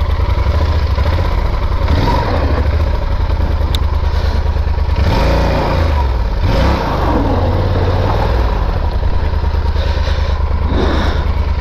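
Yamaha Super Ténéré 1200's parallel-twin engine running in first gear, revved up and down a few times between about five and eight seconds in as the bogged-down bike is worked to get it free.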